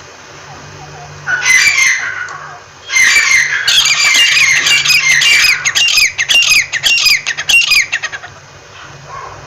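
Francolin (teetar) calling: a short harsh call about a second in, then from about three seconds a long, rapid run of repeated high notes that each fall in pitch, stopping about eight seconds in.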